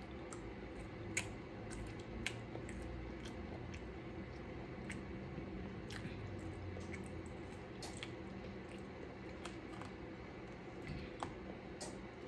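Close-miked chewing of seafood-boil food: soft wet squishing with scattered sharp mouth clicks, two of them standing out about one and two seconds in.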